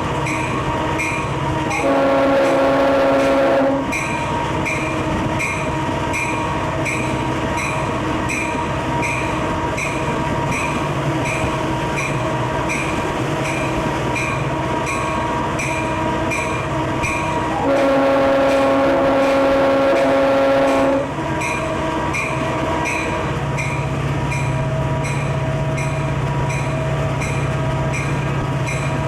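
Diesel freight locomotive running with a steady engine drone and a rapid, regular ticking, while its air horn sounds twice: a blast of about two seconds near the start and a longer one of about three seconds past the middle.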